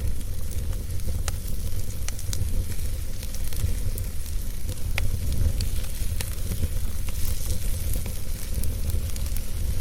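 Wood fire burning in a fireplace: a steady deep rumble and hiss, with scattered sharp crackles and pops. One of the clearest pops comes about five seconds in.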